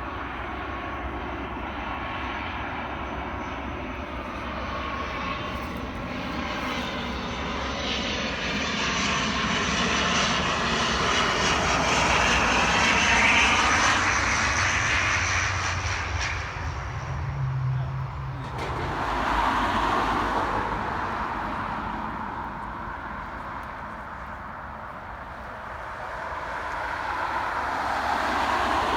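Airliner engines as a plane passes close by, swelling to their loudest about halfway through with gliding pitch as it goes past. The sound then drops off and swells again.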